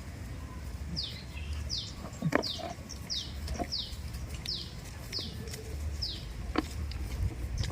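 A bird calling a series of about nine short, high, falling notes, about two a second, over a low rumble, with a few sharp clicks, the loudest about two seconds in.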